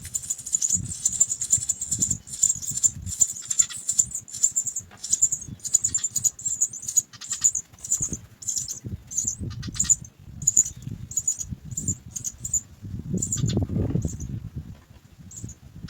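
House sparrow nestlings begging: rapid, very high-pitched chirps packed close together at first, then separate chirps about twice a second. A low rumbling noise runs underneath and swells near the end.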